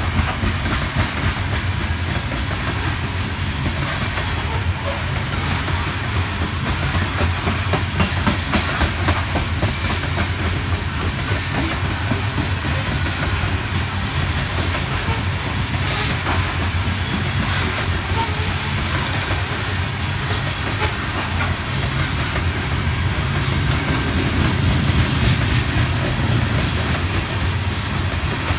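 A train rolling steadily past, a continuous rumble of wheels on rail with scattered sharp clicks.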